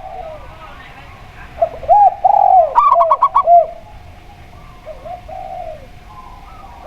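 Zebra dove and spotted dove cooing together. Lower, arched coo phrases come from about 1.5 to 3.5 seconds and again around five seconds, and a quick run of about six high staccato notes cuts in near three seconds.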